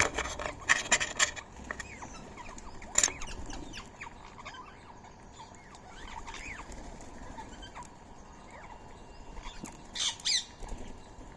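Birds' wings flapping in short flurries, one at the start and another near the end, with scattered short chirps from small birds in between.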